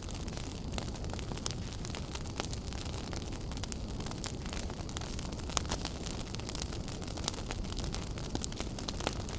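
Fire burning in a fireplace, crackling: frequent small sharp pops and snaps over a steady low rush of the flames, with one louder pop a little past halfway.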